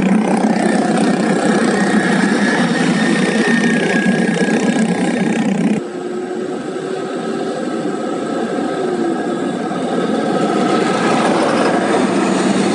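Heavy diesel hauling truck engine running steadily, with an abrupt change in its sound about six seconds in.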